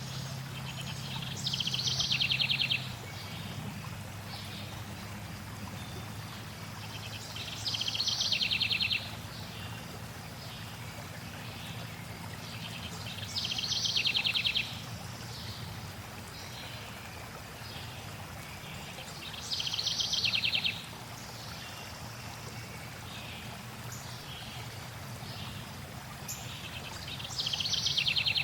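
A songbird repeating the same short, rapid trilled phrase about every six seconds, five times in all, over a steady rush of flowing water and a low steady hum.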